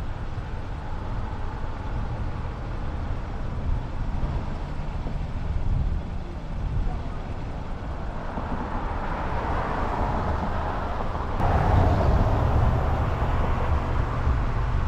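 Wind rushing over the microphone and road noise from a moving electric motorcycle, a steady low rumble with no engine note. A passing vehicle or a burst of speed swells the noise from about halfway, and it gets suddenly louder a little after that.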